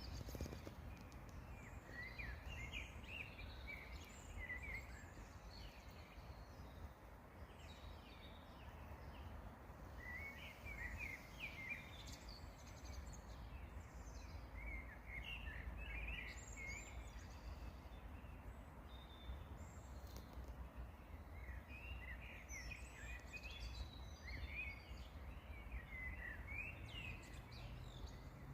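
Small songbirds singing and chirping in short, quick phrases that come in bursts every few seconds, over a steady low rumble.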